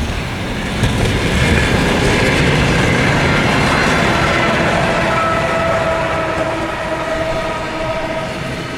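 A train passing on the rails, growing louder about a second in and then fading, with several steady tones that fall slowly in pitch.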